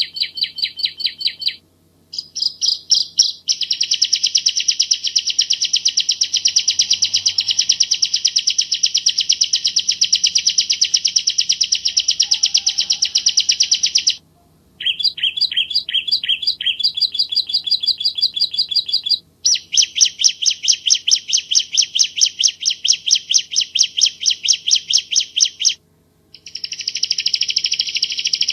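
Bar-winged prinia (ciblek Jawa) singing in long bouts of rapid, evenly repeated sharp chirping notes, the tight fast 'shot' phrases bird keepers prize, broken by a few pauses of under a second.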